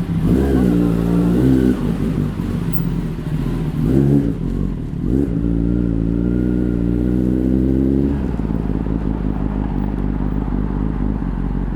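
Kawasaki ZX-10R inline-four with an Akrapovic exhaust accelerating through the gears, its pitch climbing and dropping at each shift, then holding a steady note before easing off to a lower drone near the end.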